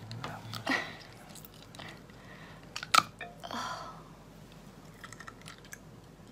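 Close-up chewing and biting of a piece of seafood: wet mouth sounds with a few sharp clicks and crunches, the loudest about three seconds in.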